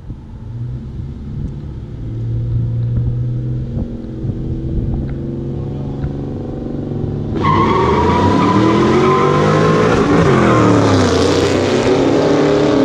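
Street-race cars' engines idling and revving at the line. About seven seconds in, they go to full throttle, much louder, the engine note climbing and dropping with the gear changes.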